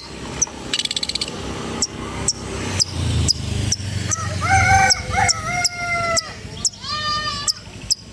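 Long-tailed shrike (cendet) singing a mimicry-rich song: a quick series of sharp chips, a rapid rattle about a second in, and longer drawn-out calls in the middle and near the end.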